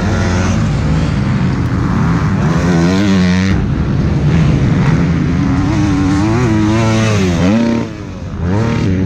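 MX2 motocross bikes racing on the dirt track, engines revving hard and climbing and dropping in pitch as they accelerate and shift. Near the end the main engine's pitch falls steeply and the sound dips briefly before rising again.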